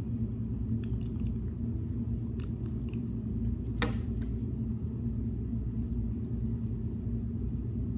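Steady low background hum with a few light clicks and taps, likely from handling the food.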